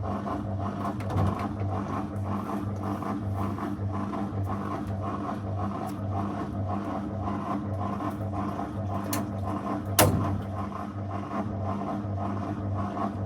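Zanussi FL984CN front-loading washing machine running a wash program: a steady motor hum with a low pulsing throb, and one sharp knock about ten seconds in.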